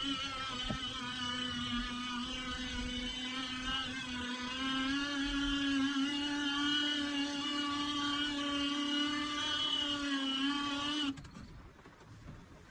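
A boat motor running steadily at one pitch, with a sharp break about eleven seconds in and a return near the end.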